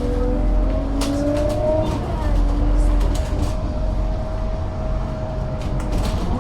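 Whine of the bus's ZF Ecomat 6HP604C-N automatic gearbox over the low drone of its Scania DC9 five-cylinder diesel, a 'singing' sound that marks the gearbox as broken. The whine rises a little as the bus gathers speed, then holds steady; near the end its pitch jumps sharply up, as with a gear change, and begins to fall. Short rattling clicks sound throughout.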